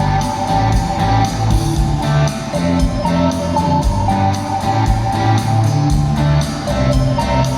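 Live rock band playing an instrumental passage between vocal lines: guitar carrying the melody over bass and a steady drum beat, with no singing.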